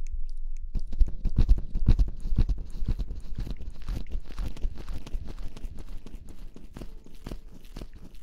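Close-miked ASMR rustling and rubbing right on the microphone: a dense run of rapid crackles and soft knocks with a low rumble, strongest in the first few seconds and thinning toward the end.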